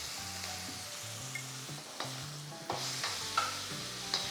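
Chicken and vegetables in Szechuan sauce sizzling in a hot pan while being stirred, with a few sharp spatula clicks against the pan.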